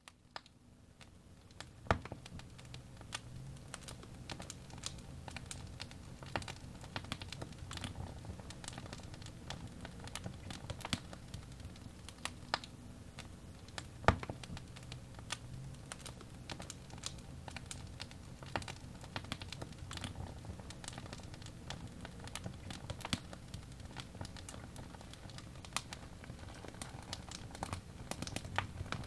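Wood fire crackling: irregular pops and snaps over a low rumble, with a sharper pop about two seconds in and the loudest about fourteen seconds in.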